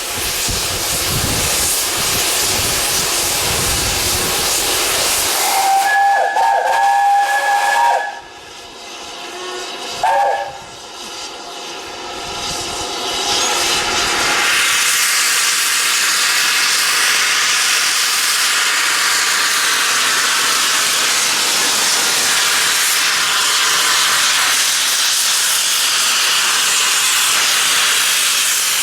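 Steam locomotive hissing steam, with its whistle blown once for about two seconds and then a short toot about two seconds later. From about halfway through the steam hiss becomes louder and steady.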